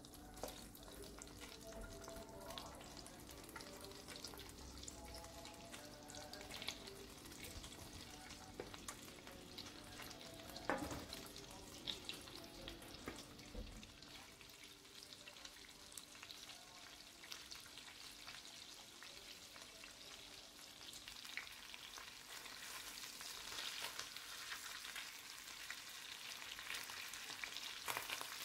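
Chicken breasts sizzling as they fry in butter in an enamelled cast-iron pan, with a few knocks and scrapes against the pan as they are moved. The sizzle grows louder and brighter near the end.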